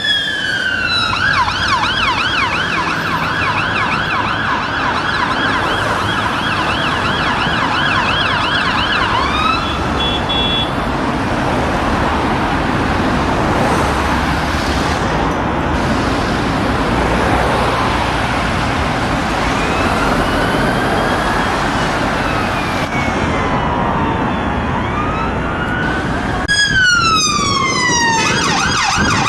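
Emergency vehicle siren sounding a rising wail, then a fast yelp for several seconds. Next comes a long stretch of steady road traffic noise with the siren faint. Near the end a falling wail and a fast yelp come back loud.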